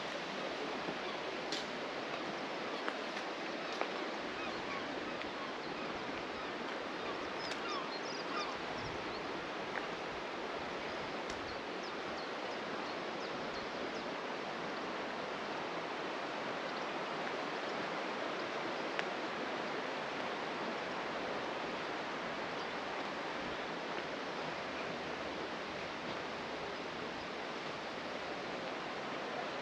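Steady rushing of running water, with a few faint ticks and short chirps over it.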